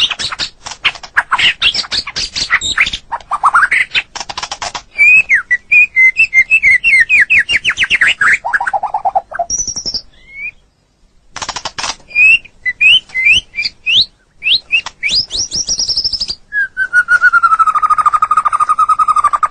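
White-rumped shama (murai batu) singing: rapid harsh chattering mixed with quick rising and falling whistled notes and trills. There is a brief pause about ten seconds in, and near the end a long, slowly falling whistle.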